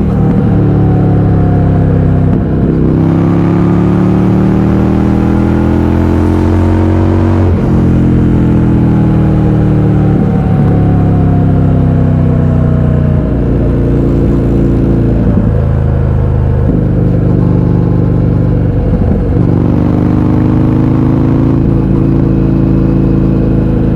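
The 1203 cc V-twin of an Indian FTR 1200 being ridden through an Akrapovic exhaust with its baffles removed. The engine note rises and falls, and its pitch breaks sharply every few seconds as the rider changes gear, about eight times.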